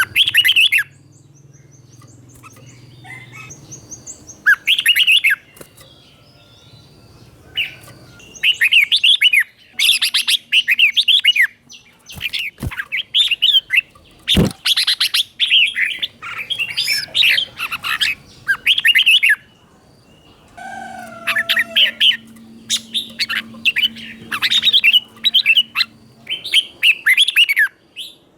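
Red-whiskered bulbul singing in bursts of quick warbled whistled phrases with short pauses between them. The song is of the 'doubled' kind prized for teaching captive bulbuls. Two sharp clicks sound near the middle.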